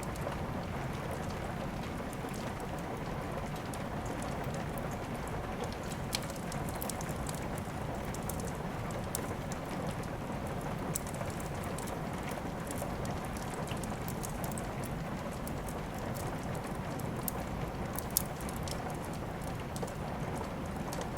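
Steady rain mixed with the crackle of a wood fire: a constant rain hiss with scattered sharp snaps and pops, two louder pops about 6 and 18 seconds in.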